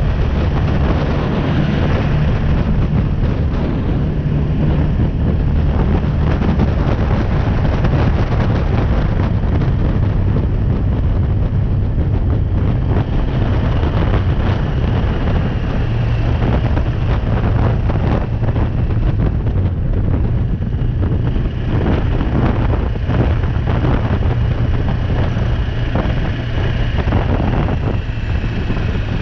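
BMW G310R's single-cylinder engine running steadily under way, its pitch shifting a little now and then, with wind rushing over the action-camera microphone.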